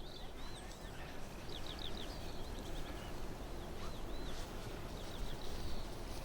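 A small songbird calling: a string of short, arching chirps, several a second, with a quick rattled run about a second and a half in. A steady low rumble lies underneath.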